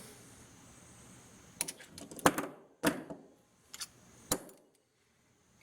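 About five sharp metallic clicks and taps spread over about three seconds, from handling the metal parts and magnets of a dismantled microwave magnetron.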